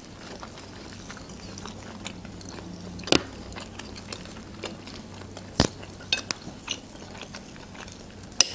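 Close-miked chewing and biting of kutabs, thin Azerbaijani stuffed flatbreads, with a few sharp clicks, the loudest about three, five and a half and eight seconds in.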